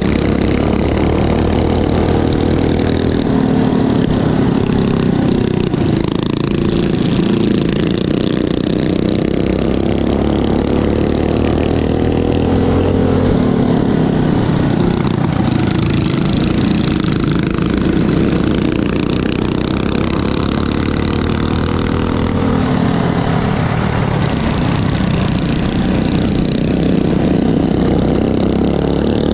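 Mini bike engines racing on a dirt track, several at once, their pitch rising and falling over and over as the riders open and close the throttle.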